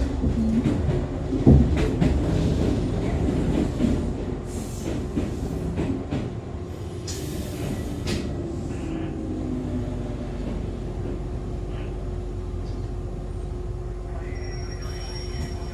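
Interior running sound of an Echizen Railway MC6101 railcar as it slows for a station stop: wheel knocks over rail joints and a low rumble at first, then short hisses about 5 and 8 seconds in, over a steady hum. The sound grows quieter as the train slows, and faint high squealing tones come in near the end.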